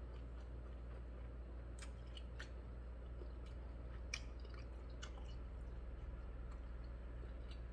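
A man chewing a mouthful of hot dog with his mouth closed, with scattered small wet mouth clicks, the sharpest a little past halfway. A faint steady low hum runs underneath.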